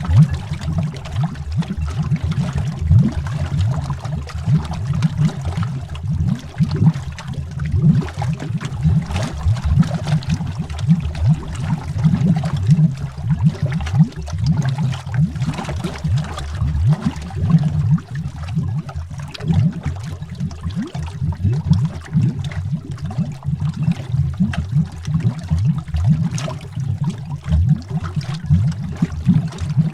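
Underwater bubbles rising in a continuous dense stream, a low bubbling and gurgling with many quick pops.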